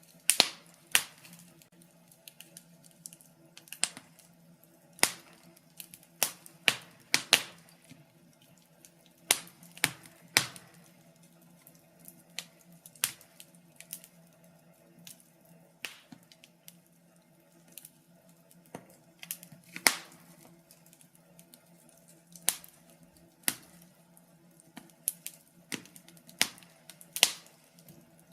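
Wood fire in a fireplace crackling, with sharp snaps and pops at irregular intervals, sometimes several in quick succession.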